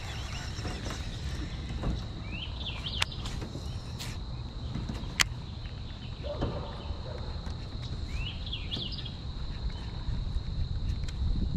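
A bird calls twice, about six seconds apart, each time a short phrase of quick rising notes. Behind it run a steady high-pitched whine and a low wind rumble, broken by a few sharp clicks, the sharpest about five seconds in.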